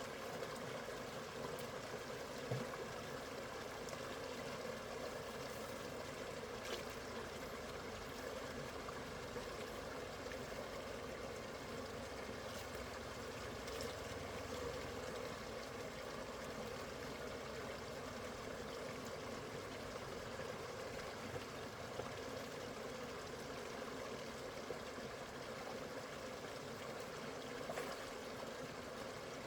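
Water running steadily, a continuous flowing and trickling, with a few faint clicks now and then.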